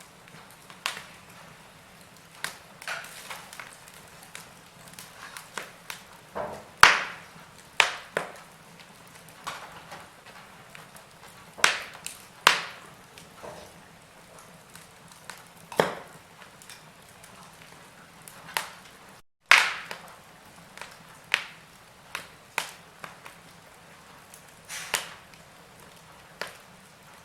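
Wood fire in a fireplace crackling: irregular sharp pops and snaps of burning wood over a faint hiss. The sound drops out for a split second about two-thirds of the way through.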